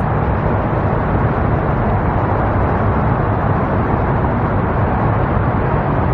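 Steady outdoor rumble and hiss of road traffic, holding an even level with no distinct events.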